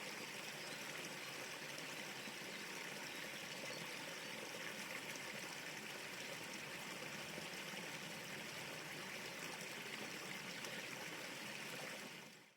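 River water flowing in a steady, even rush, fading out at the very end.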